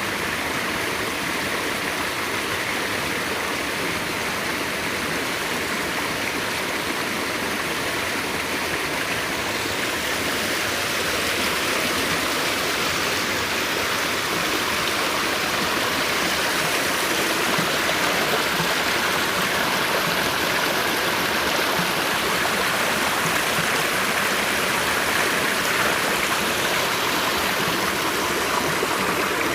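Stream water rushing steadily over rocks, with an even, continuous sound that grows slightly louder partway through.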